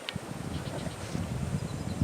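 Wind buffeting the microphone, a low uneven rumble, with one sharp click just as it begins.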